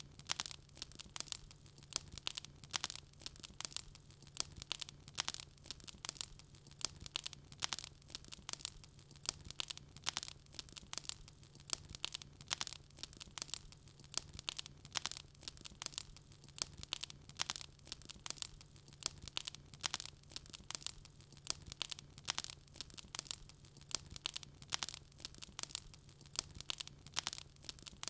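Wood fire crackling: dense, irregular sharp pops and snaps, several a second, over a faint steady low hum.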